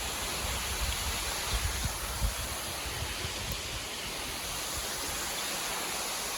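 Steady rush of the lower Wli waterfall, with irregular low rumbles underneath.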